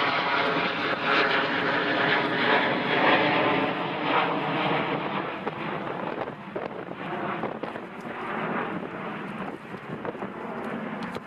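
Jet airliner engines running loud, a dense steady whine of many tones over a rushing noise, slowly fading over the seconds.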